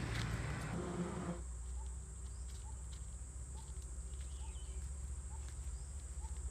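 Steady high insect chirring, with a short chirp repeating about twice a second. A noisy rush cuts off about a second and a half in.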